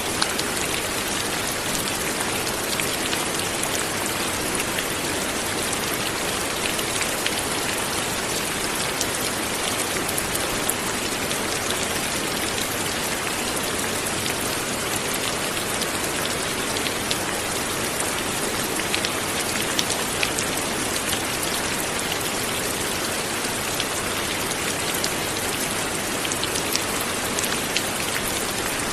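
Steady light rain falling, an even hiss of rainfall with many small drop ticks scattered through it.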